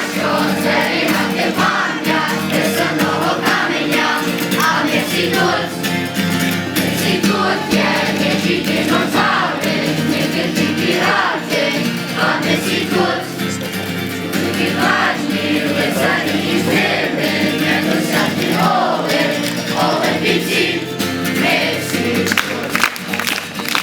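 A group of voices singing a camp song together in Ukrainian, with musical accompaniment.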